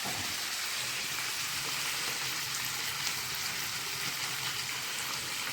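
Fresh fenugreek leaves frying in hot oil in a pan, a steady sizzle.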